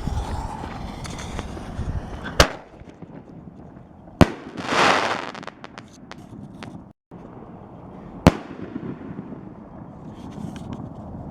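5-inch dahlia canister firework shells fired from a mortar tube: three sharp bangs, about two and a half, four and eight seconds in, with a loud rushing hiss for about a second just after the second bang.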